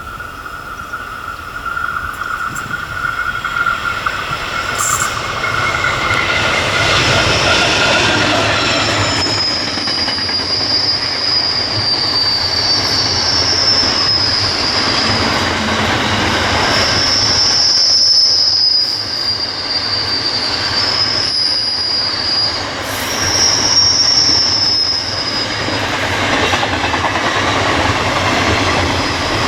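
Freight train passing, its rumble and rail clatter building over the first few seconds. From about a third of the way in, the wagon wheels squeal in long, wavering, high-pitched tones.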